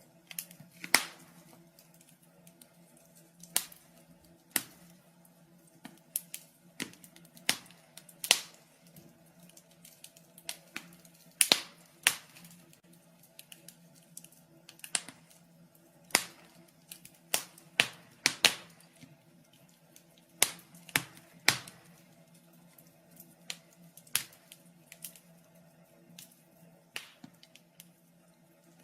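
Wood fire crackling in a fireplace: irregular sharp pops and snaps from the burning logs, some much louder than others, over a faint steady low hum.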